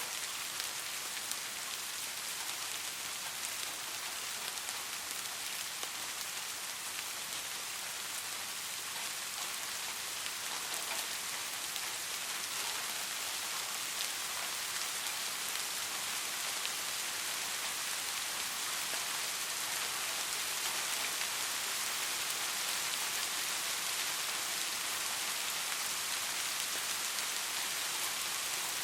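Soft rain falling steadily: an even hiss with a fine patter of drops, growing a little louder about a third of the way in.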